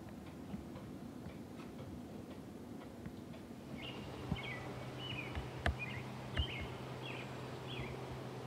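A bird chirps in short repeated calls from about halfway in, over steady outdoor background noise. A low steady hum starts at the same time, and there are a few sharp knocks.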